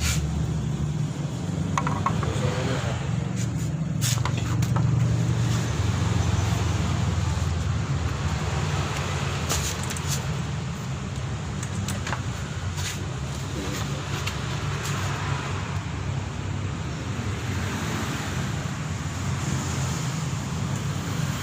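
Steady low engine-like hum, with scattered light metallic clicks and clinks from parts being handled.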